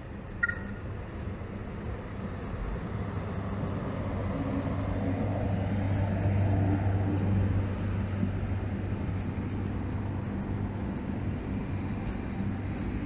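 Historic ETR 252 'Arlecchino' electric trainset passing close by: a steady rumble of wheels and running gear with a low hum underneath, swelling to its loudest about six seconds in. A brief high two-tone toot sounds just after the start.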